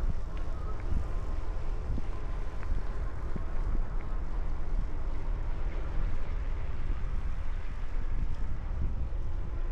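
Wind buffeting the microphone of a camera on a moving bicycle: a steady, gusting low rush with no clear breaks.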